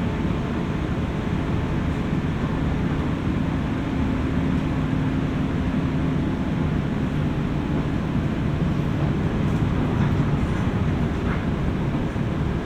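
Running noise inside a JR West 201 series electric train motor car, heard above its armature-chopper equipment: a steady low rumble of wheels on rail, with a faint steady hum that comes in a couple of seconds in and fades about halfway through.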